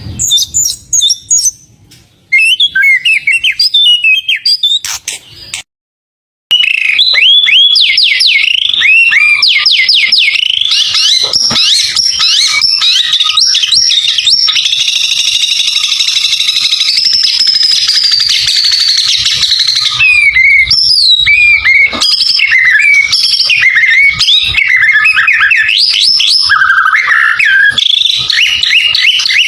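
White-rumped shama (murai batu) singing a loud, fast, varied song of whistles, rapid repeated notes and trills, with a brief silent gap about six seconds in.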